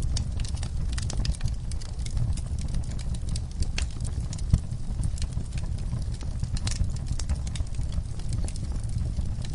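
Wood fire burning in a fireplace, crackling with irregular sharp pops and snaps over a low steady rumble of the flames, one louder pop about halfway through.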